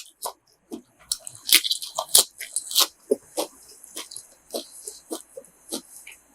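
A person chewing and biting food close to the microphone: irregular small wet crunches and clicks.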